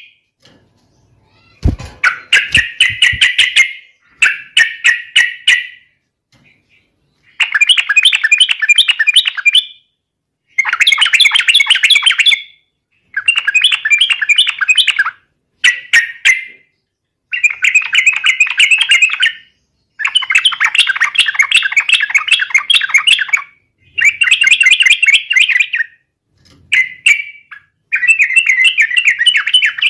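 Yellow-vented bulbul (trucukan) singing in full voice: repeated bursts of rapid, chattering song, each lasting a second or two, with short pauses between them.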